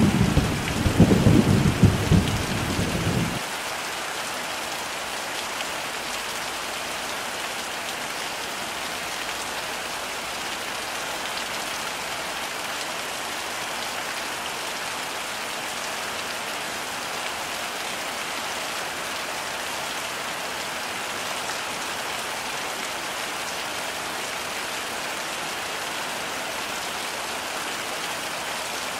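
Heavy rain falling steadily, with a rolling rumble of thunder in the first few seconds that dies away about three and a half seconds in, leaving only the even hiss of the rain.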